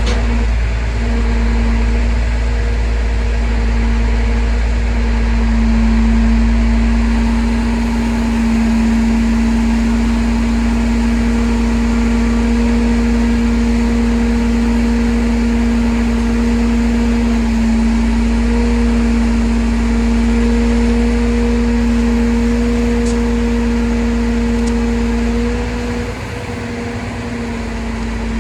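Crane truck's engine running steadily with a constant droning whine over a low rumble, easing off briefly near the end.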